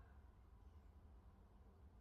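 Near silence: only a faint, steady low background rumble.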